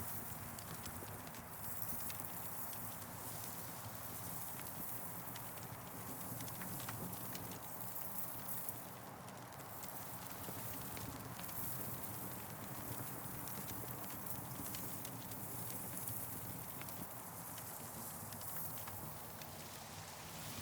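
Campfire crackling with scattered sharp pops, over wind through the trees that rises and falls every few seconds.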